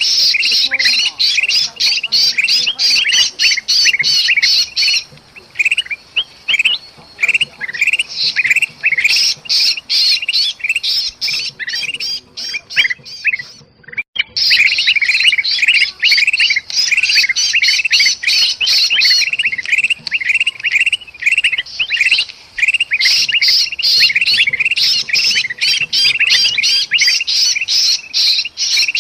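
Bulbuls (kutilang) giving a dense, rapid, agitated chatter of harsh chirps and squawks, the distress and alarm calls of a caught bulbul mixed with excited calls, used as a lure. The calls thin out briefly twice.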